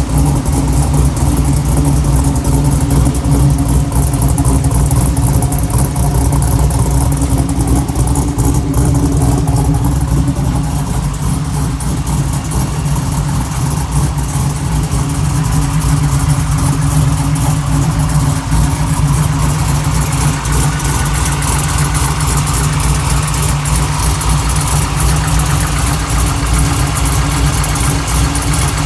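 Small-block Chevy V8 (a GM 604 crate engine) idling steadily through shorty headers, a 3-inch Flowmaster Scavenger Y-pipe and a single 3-inch Hooker Blackheart muffler, with a deep, even exhaust note. The sound is a little louder in the first ten seconds.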